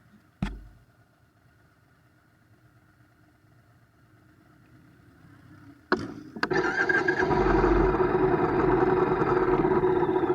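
A motorcycle engine starting. A single knock, a few seconds of near quiet, then two sharp clicks about six seconds in, after which the engine catches and runs steadily and loudly.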